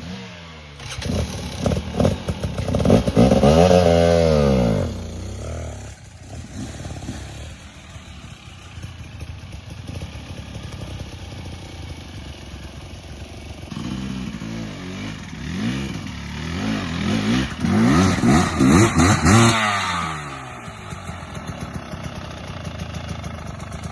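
Dirt bike engine revved in rising and falling surges, loudest a few seconds in and again from about fourteen to twenty seconds in, running lower and steadier in between.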